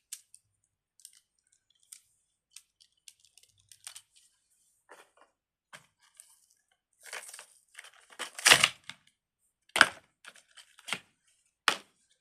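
Small plastic items being handled: scattered light clicks and crinkles, with a few louder crackling, tearing sounds in the second half, the loudest a little past the middle.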